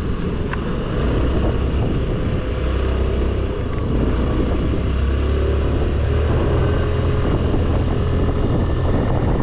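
Scooter engine running steadily under load on an uphill climb, with a continuous low rumble.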